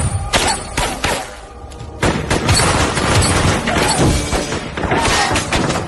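Film soundtrack: a run of crashes and thuds over music, with a brief quieter stretch about a second in.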